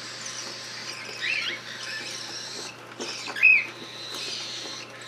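Cockatiel chicks giving a few short, squeaky chirps, the loudest about three and a half seconds in, over a faint steady hiss.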